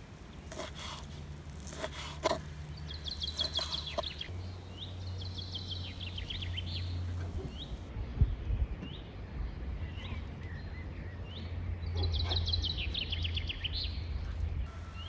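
Birds singing outdoors: several fast trilled phrases and short repeated chirps. A few knocks and thumps come in between, the loudest about eight seconds in, over a low steady rumble.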